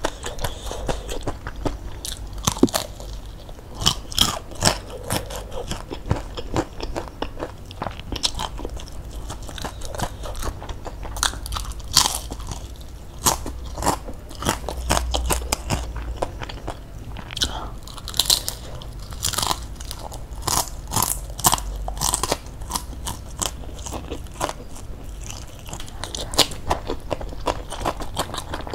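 Close-up crunching and chewing of crispy fried chicken batter, with many sharp, irregular crackles as it is bitten and chewed.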